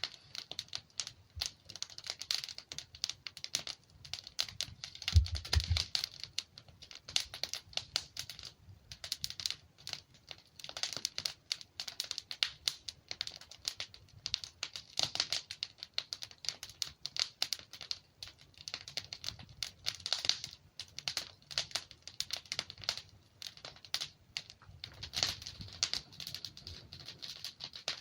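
Wood logs burning in a fireplace, crackling and popping in dense, irregular snaps, with a brief low thump about five seconds in.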